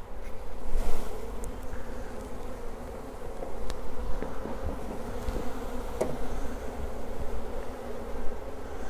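Honeybee colony buzzing steadily from an open hive, with a few brief sharp clicks.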